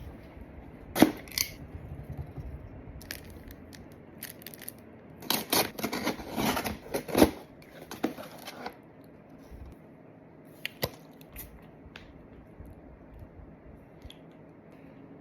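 Packaging being handled and unwrapped: sharp clicks and taps, with a spell of crinkling and tearing in the middle.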